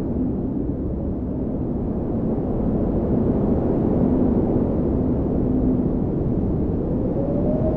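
Steady, deep wind noise, with a faint whistling tone that rises and falls near the end.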